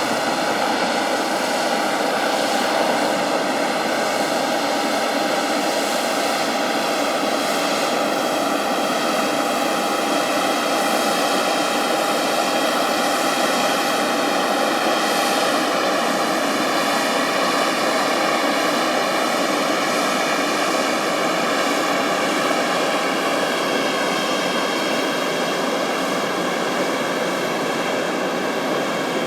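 Airplane engines running continuously at steady power, a dense whine of many tones over a rushing noise, with the tones drifting slightly in pitch towards the end.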